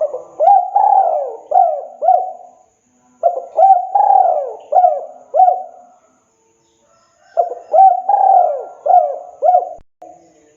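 Spotted dove (tekukur) cooing: three phrases of several rising-and-falling coos each, with short pauses between phrases.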